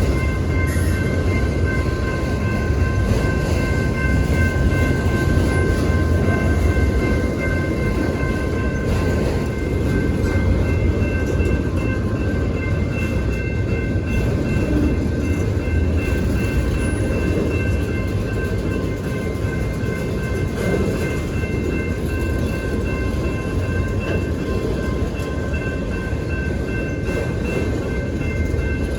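Freight train rolling past with a steady rumble of railcars on the track, and several thin high-pitched tones held steadily over it.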